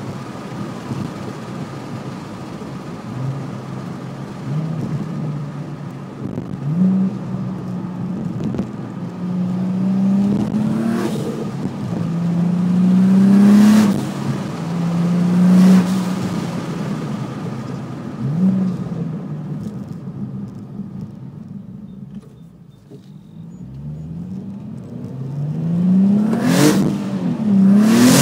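Twin-turbocharged Nissan 370Z's 3.7-litre V6 accelerating hard through the gears, the revs climbing and falling back at each shift. It eases off and goes quieter about two-thirds of the way through, then builds again to its loudest near the end.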